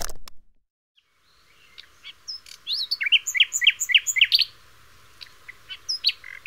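A short loud burst of noise at the very start, then birdsong: a small songbird chirping in quick, rising notes that come in a busy run about two to four seconds in and again briefly near the end.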